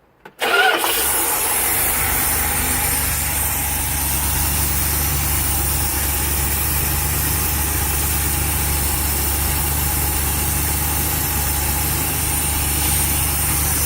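A 1975 Class C motorhome's 360 cubic-inch V8 with a two-barrel carburetor catches within the first second and settles into a steady idle. It is freshly tuned, with the carb adjusted and the timing set, and it is running like a champ.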